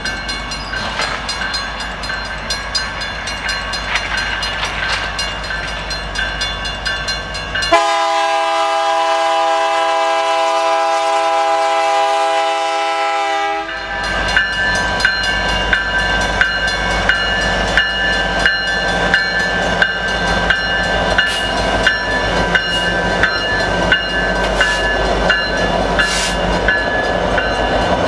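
Canadian Pacific EMD SD70ACu diesel freight locomotives approaching and passing. About eight seconds in, the lead unit's multi-chime air horn sounds one long blast of about six seconds, dropping slightly in pitch as it cuts off. The locomotives then roll past with a steady diesel engine drone and a regular clicking of wheels over the rail, louder as they close in.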